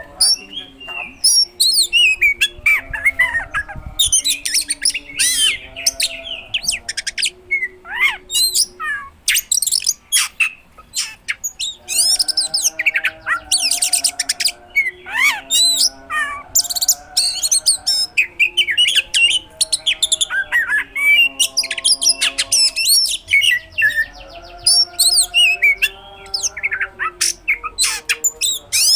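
Oriental magpie-robin in full song, a fast run of loud whistles, rising and falling sweeps and harsh mimicked notes with only brief pauses: the rich mimicry-filled 'gacor' song used as a lure to set silent magpie-robins singing.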